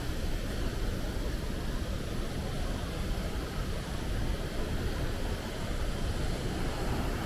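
Waterfall roaring: a steady, unbroken rushing noise, heaviest in a deep low rumble.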